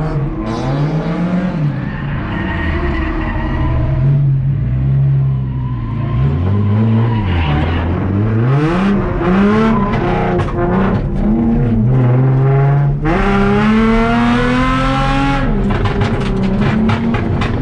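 Drift car engine revving up and down again and again through a run, with tire squeal. The longest climb in revs comes with loud squeal about 13 seconds in and breaks off suddenly.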